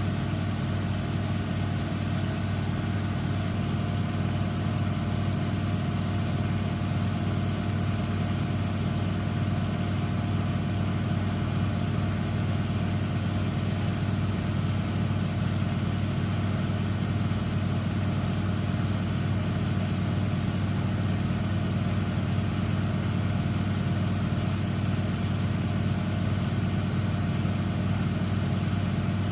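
Eudora Supernova EU 1001 washing machine in its final spin at 1100 rpm: the motor and drum run at a steady high speed with an even hum.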